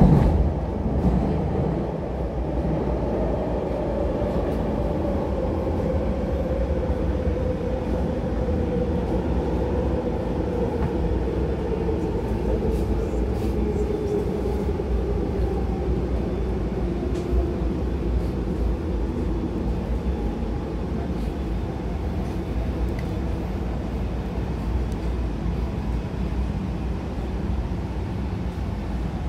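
Interior running noise of an MTR West Rail Line C-Train electric multiple unit braking into a station: a steady rumble under a traction-motor whine that falls slowly in pitch as the train slows. It opens with a short knock.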